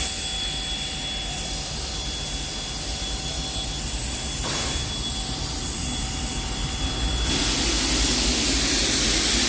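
Steam locomotive 5917, a NSW 59 class, standing with a steady hiss and a thin high whine. The hiss grows louder about seven seconds in.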